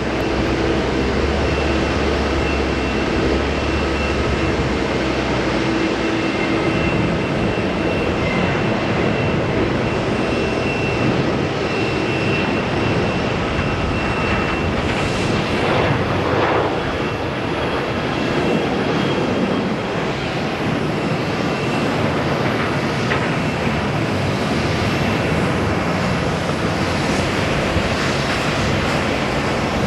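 Jet airliner engines running, a loud steady rushing noise with a thin high whine that fades out about halfway through.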